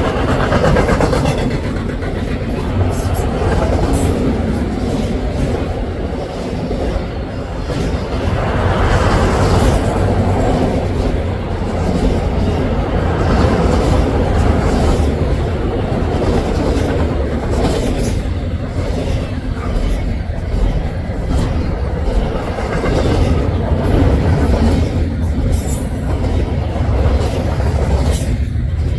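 Rack and double-stack freight cars rolling past at speed: a steady loud rumble of wheels on rail, with scattered clicks and clatter.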